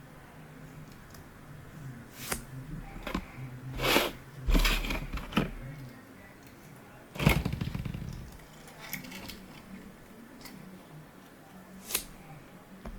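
3D-printed plastic parts handled and fitted together: scattered clicks and knocks, a louder cluster of knocks and rubbing in the middle, and a short rapid rattle about seven seconds in, then one more sharp click near the end.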